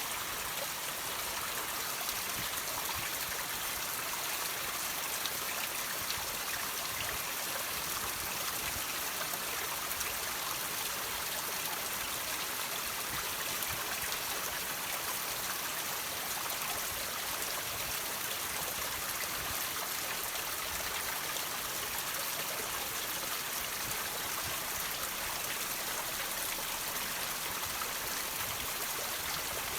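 Water trickling and dripping over rocks, a steady high splashing hiss dotted with small drip sounds.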